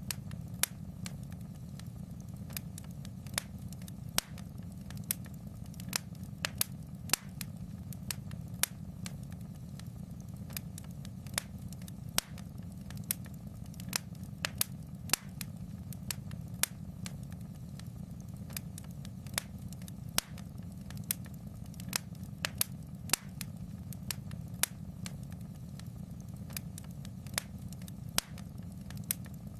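Wood fire in a fireplace crackling: irregular sharp pops and snaps, a few each second, over a steady low rumble of the burning fire.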